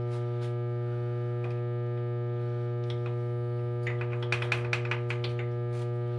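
Steady electrical hum with many overtones. About four seconds in comes a quick run of light clicks lasting just over a second.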